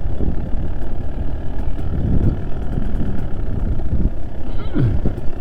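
Trail motorcycle's engine running at low revs over a rough rumble of riding noise, with a brief falling sweep in pitch near the end.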